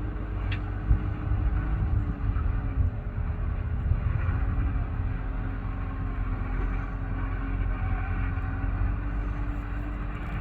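Tractor engine running steadily, its pitch dipping briefly about two seconds in and then picking back up.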